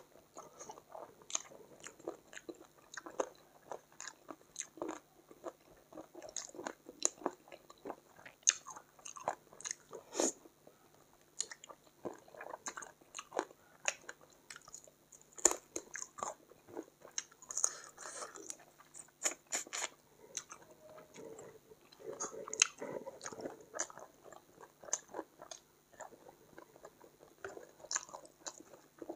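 Close-miked chewing and biting of curried chicken feet: irregular crunches and wet mouth clicks.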